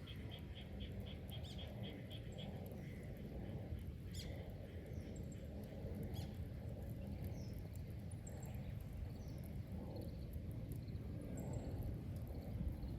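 Wood bonfire burning with a steady low rumble and scattered sharp crackles and pops. A quick run of evenly spaced chirps, about four a second, stops about two seconds in, and faint bird chirps sound now and then.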